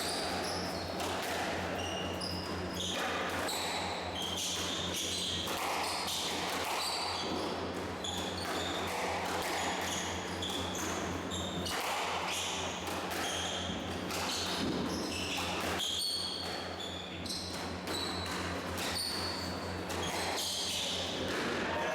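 Squash rally: the ball cracking off rackets and the court walls at irregular intervals, with shoes squeaking sharply on the court floor, over a steady low electrical hum.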